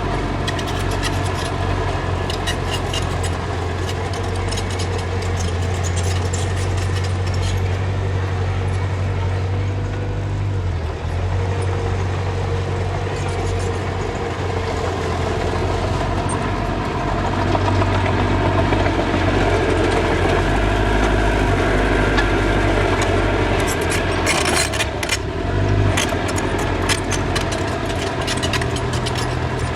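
Diesel engine of earthmoving machinery running steadily, working harder and louder for several seconds past the middle, with scattered metallic clicks and clanks.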